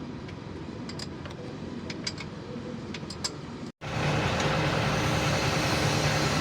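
A low mechanical rumble with scattered light metallic clicks, then, after an abrupt cut a little before 4 s, a Mitsubishi Fuso 6M60 inline-six diesel engine idling steadily and louder.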